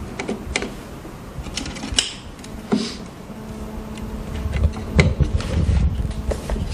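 Small plastic clicks and knocks of wire connectors being plugged into a heat press's replacement circuit board, with heavier handling bumps in the second half over a faint steady hum.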